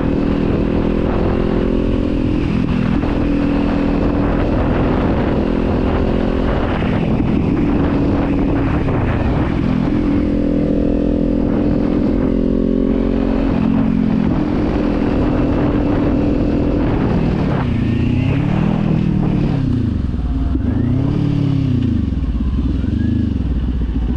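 Kawasaki Z400 parallel-twin engine and exhaust under way, heard with wind rush from riding. It holds a steady cruising pitch for a little over half the time, then the engine speed drops and climbs again several times toward the end as the rider eases off and opens the throttle.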